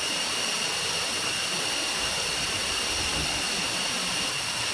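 Steady rushing of flowing water from a jungle waterfall and stream, with a thin, steady high-pitched tone laid over it.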